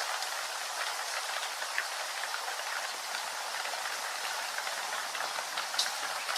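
Steady rain, a dense hiss of falling drops with many small ticks of individual drops and one sharper drip near the end.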